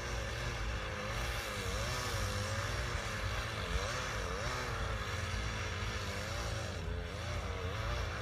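Chainsaw engine running, its pitch rising and falling again and again as the speed changes.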